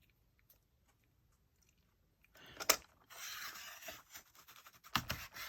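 Small paper trimmer cutting a sliver off paper: a sharp click, then the blade scraping along through the paper for about two seconds, with a few more clicks near the end.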